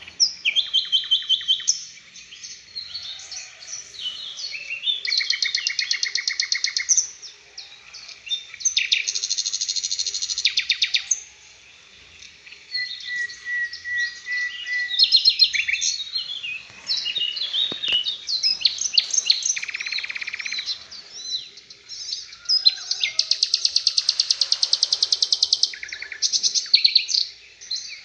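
A songbird singing loud, varied phrases with several long, very fast trills of rapidly repeated notes, broken by short pauses: a 'tembakan' bird-song recording of the kind used as a master song for training caged songbirds.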